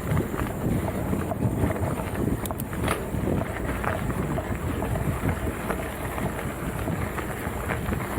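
Wind buffeting the microphone as a mountain bike rides over rough trail, with frequent small rattles and knocks from the bike and tyres.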